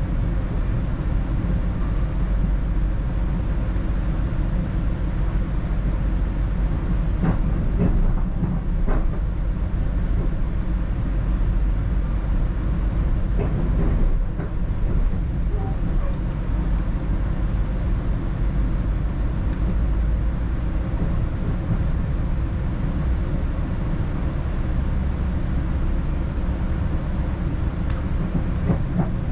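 Steady low rumble of a Northstar commuter train in motion, heard from inside a passenger coach: running noise from the wheels on the rails, with a few faint knocks in the first half.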